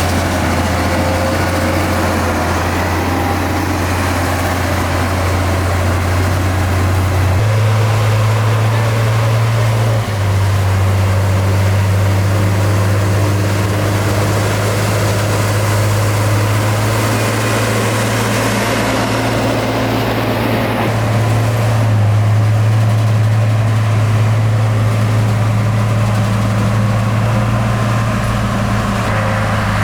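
Heavy diesel engine of earthmoving machinery running steadily with a deep hum. Its pitch shifts abruptly a few times.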